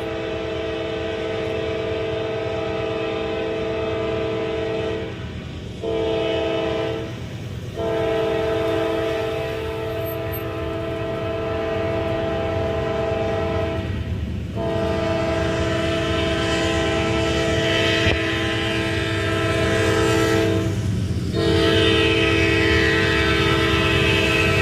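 Norfolk Southern freight locomotive air horn sounding a chord in repeated blasts: a long one, a short one, then three more long ones. Diesel rumble and rail noise grow louder underneath as the train approaches.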